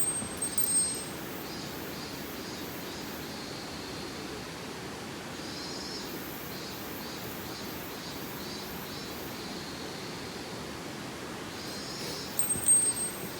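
Steady rush of a mountain stream, with a bird calling over and over in short high chirps. Near the end come a few bright metallic clinks with a high ringing tone.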